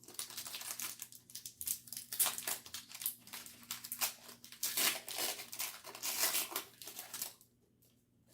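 Foil booster-pack wrapper being crinkled and torn open, a dense crackling that stops about seven seconds in.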